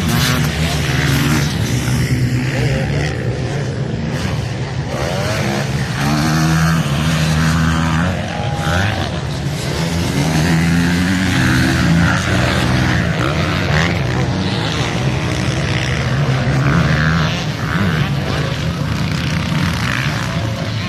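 Several motocross bikes racing, their engines revving up and down through the gears in overlapping rising and falling notes that never let up.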